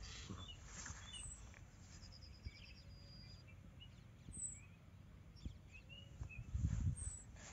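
Birds chirping in the background, short scattered calls with a rapid trill about two seconds in, over a low rumble on the microphone that swells briefly near the end.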